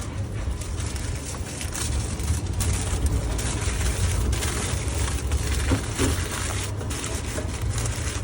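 Food wrapper crinkling as a burger or hot dog is wrapped by hand, over a steady low rumble.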